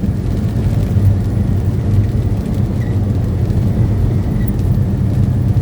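Steady engine and road noise of a moving truck, heard inside the cab as an even, low drone.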